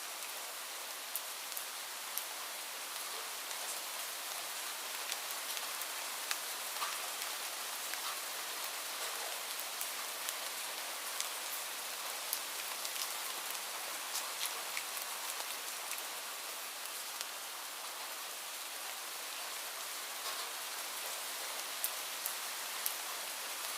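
Steady rain falling, a continuous hiss with many separate drops ticking sharply on a surface.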